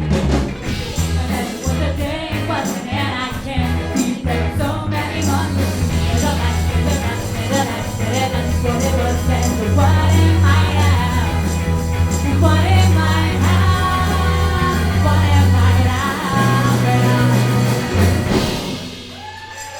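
Live ska band playing, with a strong steady bass line under the rest of the band; the music stops near the end.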